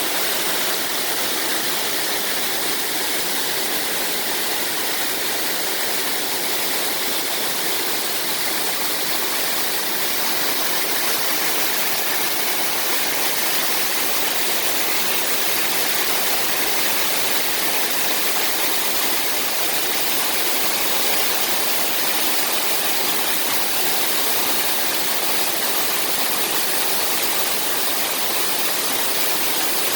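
Waterfall: the steady, unbroken rush of water tumbling and splashing down the falls.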